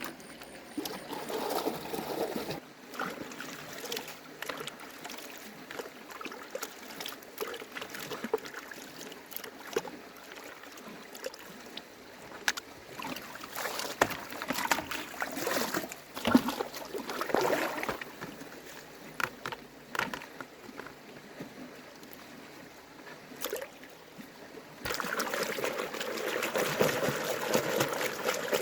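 Water trickling and splashing, with scattered knocks and handling clicks. About three-quarters of the way in, it changes to a steadier, louder rush of running water.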